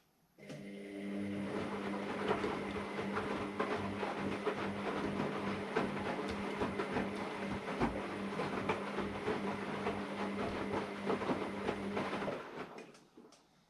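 AEG Lavamat Turbo washer-dryer running: a steady electric hum with dense clattering and rattling. It starts abruptly just after the beginning and cuts off near the end.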